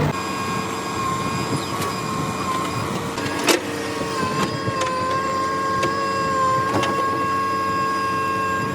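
Earth-moving machinery giving a steady high-pitched mechanical whine that wavers slightly in pitch, with two sharp knocks, about three and a half seconds in and again near seven seconds.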